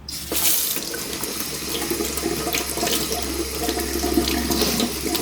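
Tap water running steadily into a kitchen sink, turned on just after the start, with a few light knocks and splashes.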